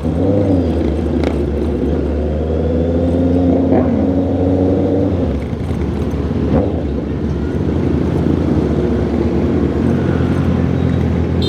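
Honda CB650R's inline-four engine and exhaust running under way, a steady engine note that dips briefly about five seconds in and then picks up again.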